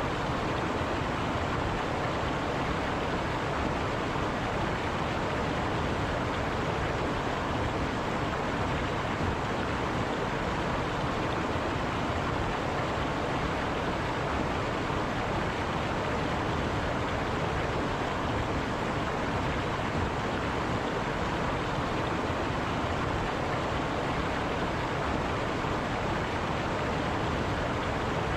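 River water flowing over rocks, a steady rushing without breaks.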